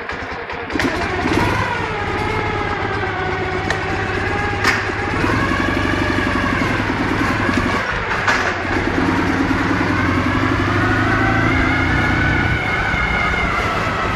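Ural motorcycle's 650 cc flat-twin engine pulling hard and accelerating, its pitch climbing and dropping back several times as it shifts through the gears.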